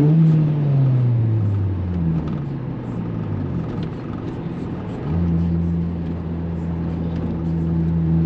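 Honda Civic engine under way, revving up at the start, then revs falling gradually for about three seconds, then holding steady from about five seconds in. The owner says the car's clutch is worn out.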